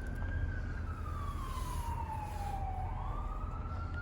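Emergency-vehicle siren wailing: a single tone falls slowly in pitch and rises again about three seconds in, over a steady low rumble.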